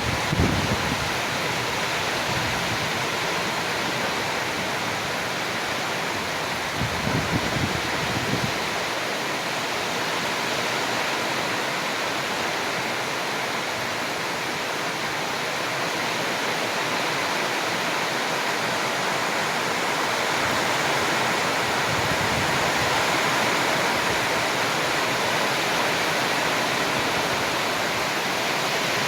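Heavy rain falling in a steady, even hiss. Brief low buffets, like wind on the microphone, come right at the start and again about seven seconds in.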